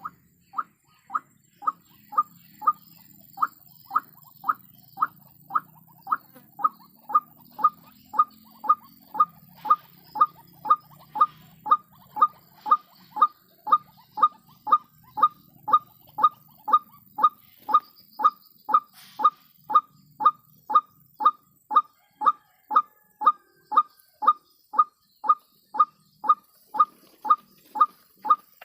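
White-breasted waterhen (ruak-ruak) call: one short, sharp note repeated about twice a second, very evenly and without pause.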